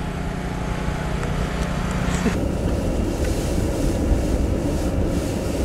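Car driving on snow-covered roads: a steady engine hum over road and tyre rumble, the hum dropping out about two seconds in and leaving a rough rumbling noise.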